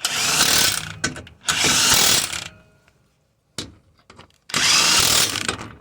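Radiator mounting bolts being tightened with a tool in three loud bursts of about a second each, with short pauses between.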